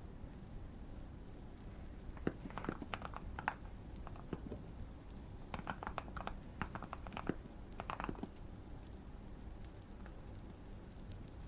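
Typing on a modded Keychron Q1 mechanical keyboard with Fierce Girl switches: two short bursts of keystrokes, the first about two seconds in and the second from about the middle, over faint fire crackling.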